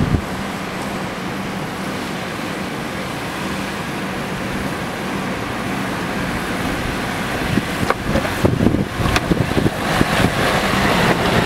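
A car driving with a steady engine hum and road noise. From about eight seconds in, the rumbling turns rougher and uneven, with a few sharp knocks.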